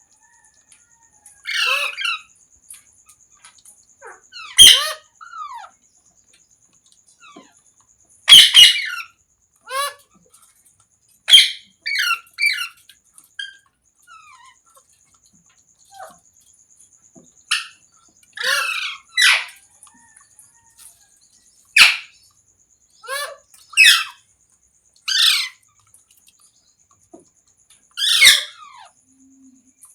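Pet green parrot calling: about a dozen short, high-pitched bouts of chirps and squawks at irregular intervals, with quiet gaps between them.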